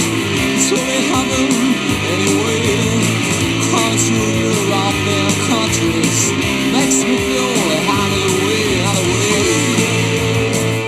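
Rock and roll band playing an instrumental passage, a guitar lead with bending notes over a steady bass line.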